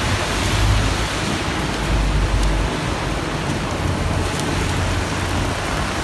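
Heavy rain falling on wet pavement, a steady hiss, with gusts of wind buffeting the microphone.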